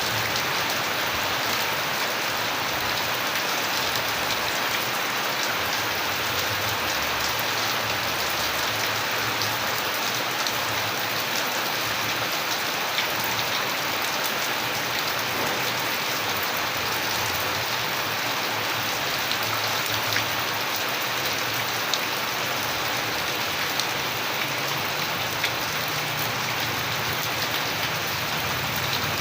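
Steady, heavy rainfall, an even hiss of drops, with a few sharper single drop hits standing out now and then.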